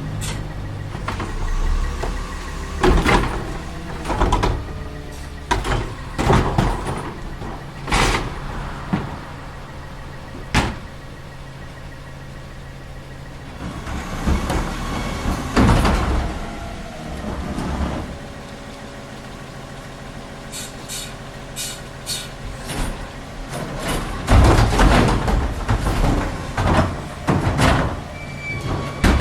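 CCC LET2 garbage truck with a Heil Multitask split-hopper body at work: the engine runs steadily under repeated sharp metal clanks and bangs, with a rising and falling hydraulic whine near the middle.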